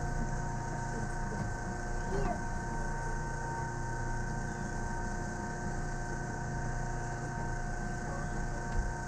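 Cab of a Yamaman Yukarigaoka Line rubber-tyred train rolling slowly: a steady low rumble with several constant whining tones from the car's electrical equipment, and a brief thump near the end.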